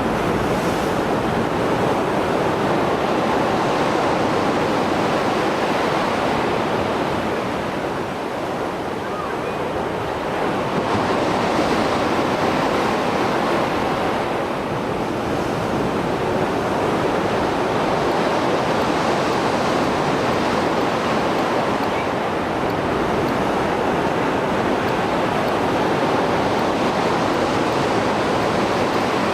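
Mediterranean Sea waves surging and breaking on the shore after a storm: a continuous rushing wash that swells with brighter surges every few seconds.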